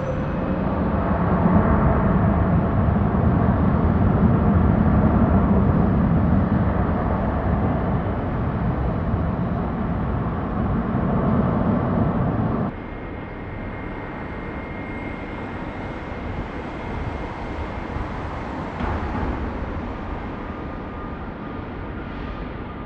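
Jet airliner engine noise: a loud rumbling roar that swells over the first couple of seconds and slowly eases, then cuts off suddenly about 13 seconds in. A quieter jet rumble follows, with a thin steady high whine over it.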